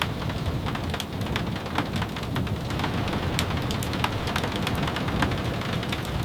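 Steady rain, with a low continuous rumble beneath it and scattered sharp pops and taps every fraction of a second.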